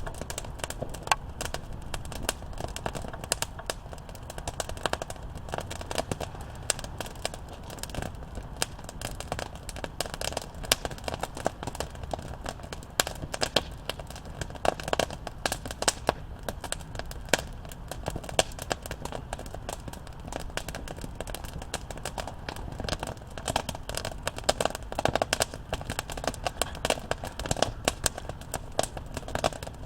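Wood campfire crackling and popping: dense, irregular sharp snaps over a low steady hiss and rumble of the burning fire.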